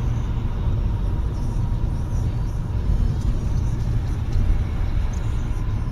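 Steady low rumble of a moving car's engine and tyre noise, heard from inside the cabin.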